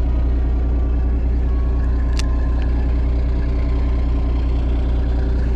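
Fishing boat's engine running at a steady low idle, a constant deep drone, with a single sharp click about two seconds in.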